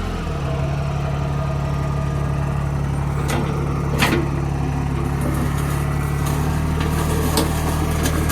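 TYM 224 compact diesel tractor engine running at a steady speed while box blading a dirt road, with two sharp knocks about three and four seconds in.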